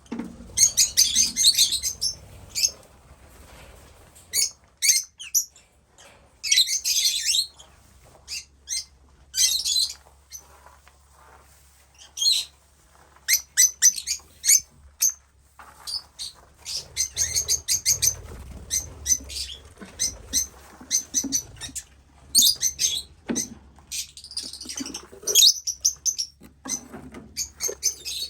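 Lovebirds giving many short, shrill chirps and squawks in irregular bursts, over a faint steady low hum.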